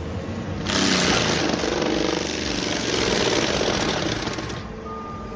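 Bobcat T770 tracked loader running a forestry mulcher: the engine runs steadily under a loud rushing, grinding noise as the mulcher head chews through brush and wood for about four seconds, which then drops back to the engine alone near the end.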